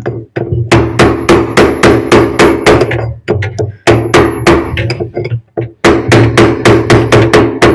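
Hammer blows on the lock nut of a top-load washing machine's drum to knock it loose, struck in three quick runs of about four blows a second. Each run has a metallic ringing from the drum.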